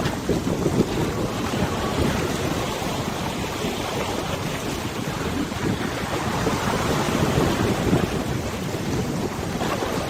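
Wind buffeting the microphone over a river, a rough fluctuating rush mixed with the wash of river water.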